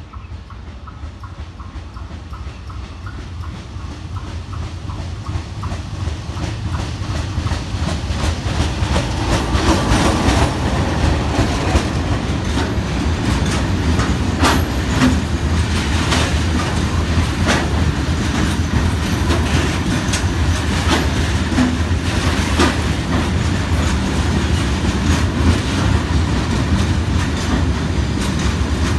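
Bangladesh Railway goods train of oil tank wagons, hauled by a diesel locomotive, coming closer and passing. The rumble grows louder over the first ten seconds or so, then the wagons' wheels clack steadily over the rail joints as the tank cars roll by.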